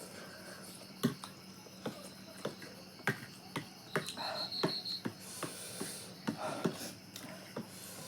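Scattered short clicks and smacks of people eating, over a steady high trill of crickets.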